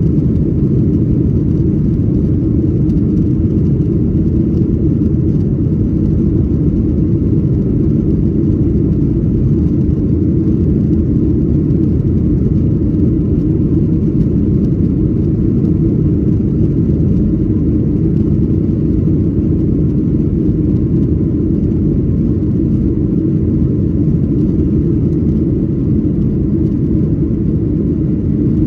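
Steady, loud cabin rumble of a Boeing 737-800 with its CFM56-7B turbofan engines at high thrust, mixed with airflow noise around the fuselage, during the takeoff and initial climb.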